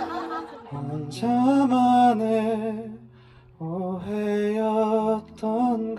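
A man singing a slow Korean ballad live, with added reverb on his voice, over soft acoustic guitar: two long sung phrases with a short breath between them about three seconds in.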